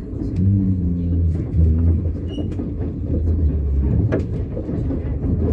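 Running noise of a China Railway 25T passenger coach in motion, heard inside the coach: a steady low rumble with scattered clicks, one sharper click about four seconds in.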